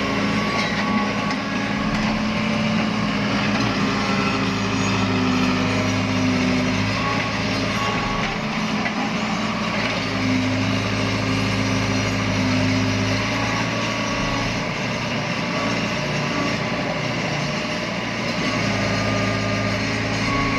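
Miniature RC vehicle running continuously, giving an engine-like drone. The low hum swells and eases every few seconds.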